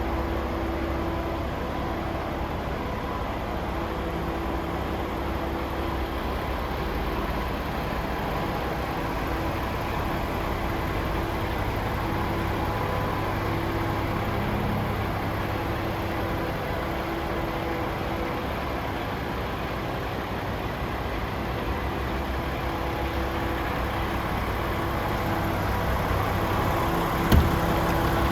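Paccar MX-13 six-cylinder diesel engine of a DAF CF 510 tractor unit idling steadily, with one short knock near the end.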